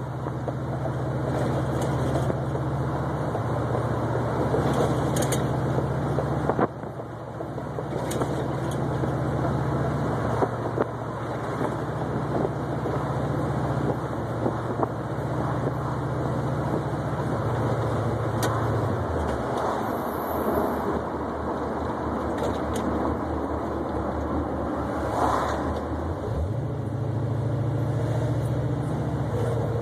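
Oldsmobile 442's V8 running as the car drives, over steady road and wind noise. The engine note dips briefly about seven seconds in, falls away around twenty seconds in, and rises again as the car pulls away near the end.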